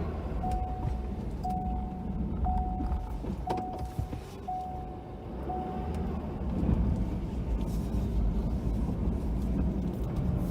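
Ford F-250 plow truck running, heard from inside the cab as a steady low rumble. Over it, a steady beep sounds six times, about once a second, stopping about six seconds in.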